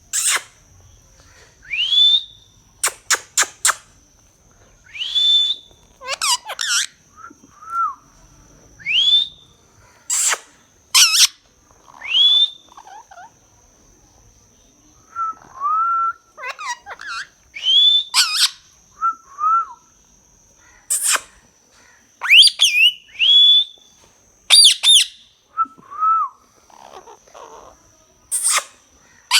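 A parrot calling: a rising whistle that ends on a held high note, repeated every few seconds, mixed with short sharp harsh calls and brief lower chirps.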